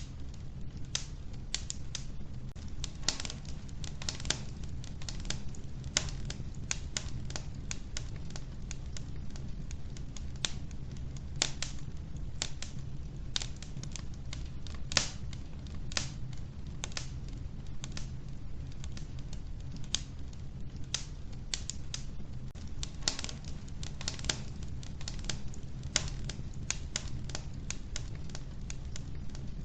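Wood fire burning in an old wood-burning stove: irregular sharp crackles and pops, several a second, over a steady low rumble of the flames.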